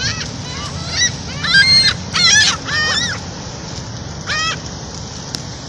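Seagulls calling: a quick run of harsh, squawking calls, loudest in the middle, then one more call a little later.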